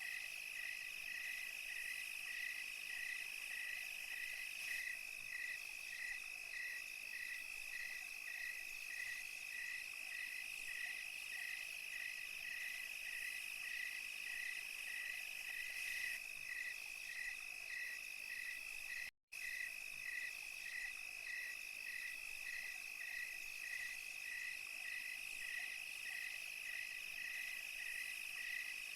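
Night chorus of crickets and other insects: a steady high trill with a regular chirp about twice a second beneath it. The whole chorus cuts out for a split second about two-thirds of the way through.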